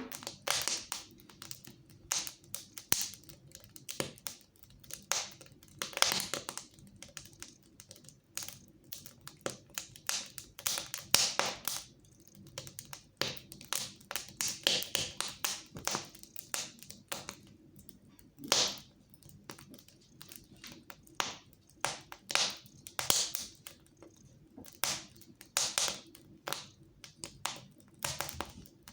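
Wood fire crackling in a fireplace: irregular snaps and pops, some coming in quick clusters.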